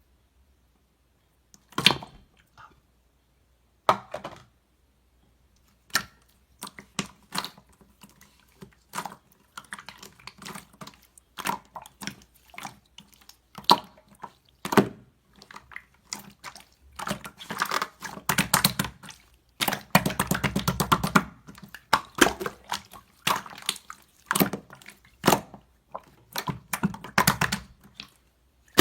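Pearl slime being handled by hand: wet clicks and small pops as it is squeezed, folded and poked, a few separate ones at first, then coming thick and fast about two-thirds of the way through.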